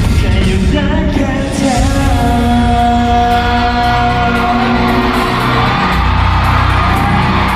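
Live band music with a steady beat and a singer holding one long note for about two seconds in the middle, echoing in a large hall.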